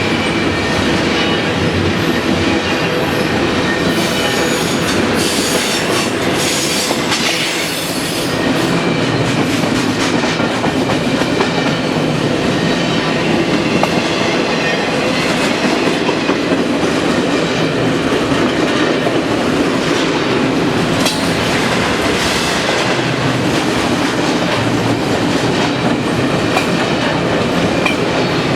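A BNSF double-stack intermodal freight train rolling past, its wheels clacking steadily over the rail joints.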